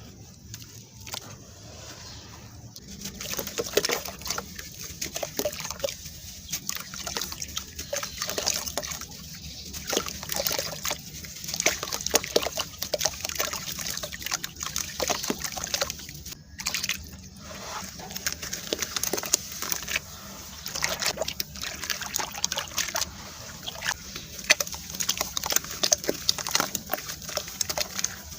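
Wet sand-cement or dirt being crumbled and crushed in water, with dense crackling and crunching and wet sloshing. It gets louder about three seconds in and breaks off briefly near the middle.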